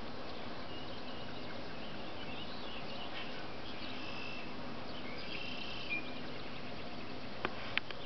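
Small songbirds chirping and twittering faintly in short, high notes over a steady hiss, followed by two sharp clicks close together near the end.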